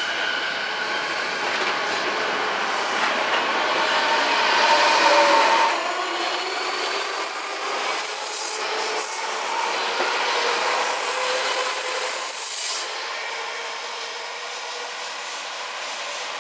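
Odakyu 4000 series electric train running on the rails: wheel and rail noise with squealing tones, loudest about five seconds in. In the second half a faint whine slowly rises in pitch.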